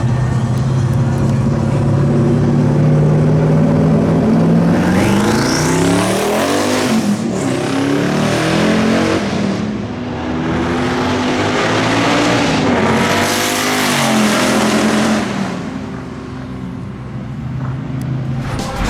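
Race cars accelerating hard at full throttle, their engine notes climbing and dropping in pitch several times, with a thin rising whistle about five seconds in.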